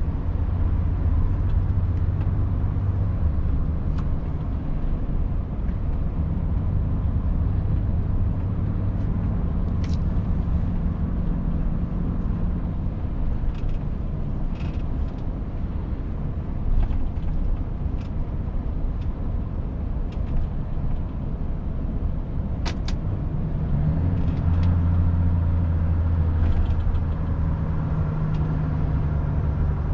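Cab interior of a Volvo FH 500 truck on the move: its 13-litre straight-six diesel drones steadily with road noise, pulling harder at the start and again near the end. A few short clicks and knocks come from the cab now and then.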